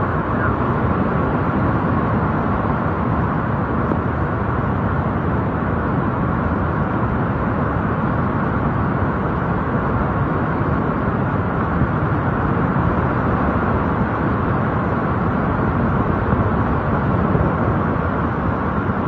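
Swollen flood torrent rushing, a steady, even noise with no breaks.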